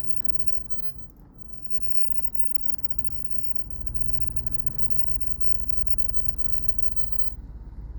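Off-road vehicle crawling down a rocky trail: a low engine rumble that grows louder about halfway through, with scattered light knocks.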